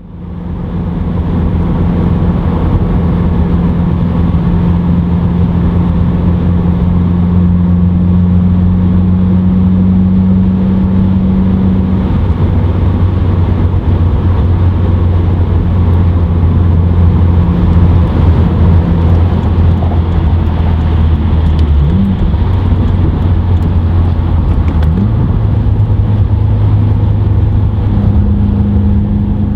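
Subaru WRX's turbocharged flat-four running through an Invidia N1 dual-exit stainless catback exhaust at a steady cruise, a deep, bassy drone. The pitch wavers briefly twice past the twenty-second mark, then settles slightly higher.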